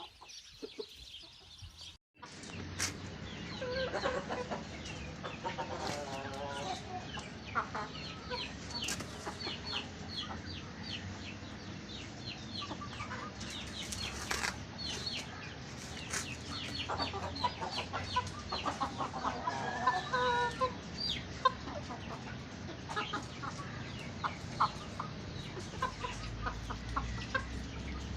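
A flock of chickens clucking and calling, with runs of short high calls and a couple of longer, drawn-out clucks. The sound breaks off abruptly about two seconds in and resumes straight after.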